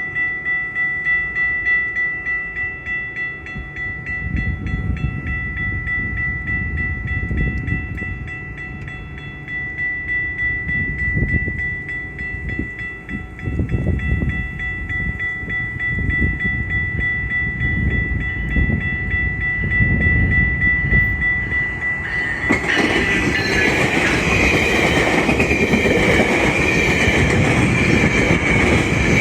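A train passing, its wheels clacking over rail joints with a steady high tone sounding above it. About two-thirds of the way through, the sound turns into a louder, continuous rush of wheels and cars going by.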